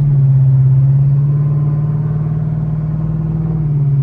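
Chrysler 300's Hemi V8 engine droning steadily as the car is driven, heard from inside the cabin. The pitch holds steady, then drops slightly near the end.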